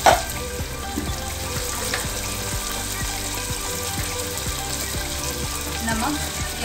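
Oil and spiced tomato-onion masala sizzling steadily in a steel kadhai over a gas flame, with one sharp knock right at the start.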